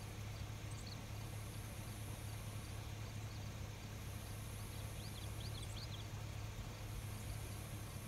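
Night outdoor ambience: a high insect buzz swells and fades about every two and a half seconds over a steady low hum, with a few faint short chirps; no thunder is heard.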